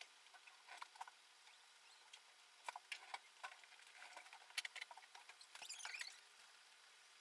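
Faint scattered clicks, taps and scratchy rustling of small scooter parts being handled by hand, with the sharpest tap a little past halfway and a short burst of rustling just before it falls quiet.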